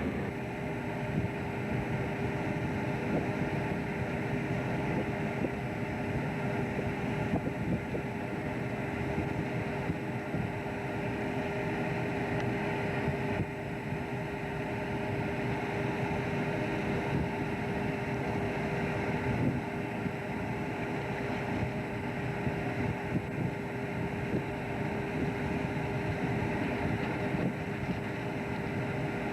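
Fishing boat's engine running steadily: an even drone with a constant hum.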